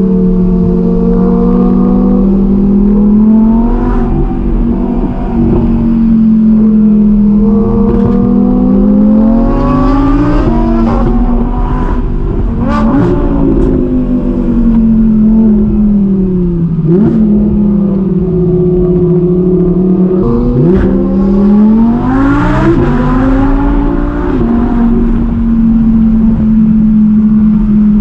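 Audi R8's V10 engine heard from inside the cabin, rising and falling in pitch as it accelerates and eases off through the bends. Short sharp cracks cut in several times.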